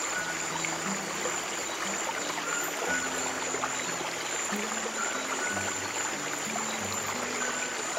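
Steady rushing of a flowing stream, with soft, slow piano notes held low underneath.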